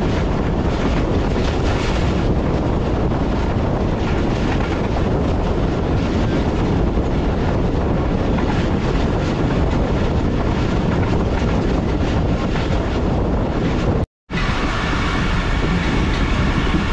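Passenger train coach rumbling and rattling steadily as the train runs along the track. The sound breaks off for an instant about fourteen seconds in.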